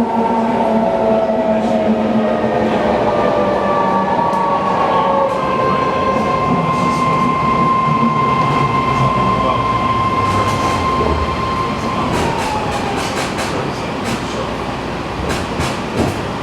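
BART train running, with rumbling noise and whining tones that drift in pitch. One tone holds steady and then falls away about twelve seconds in. A run of sharp clicks comes near the end.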